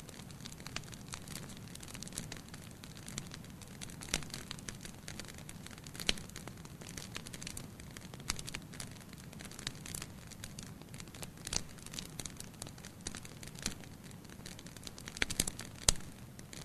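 Wood fire burning in a fireplace: a steady low hiss with irregular crackles and a few sharper pops of the burning logs.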